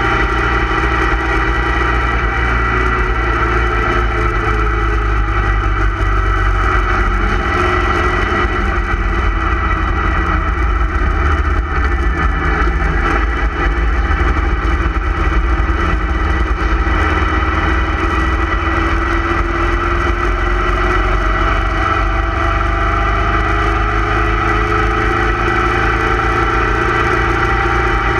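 Motorcycle engine running steadily at road speed, heard from the bike itself, its pitch slowly rising and falling with speed, over a constant low wind rumble.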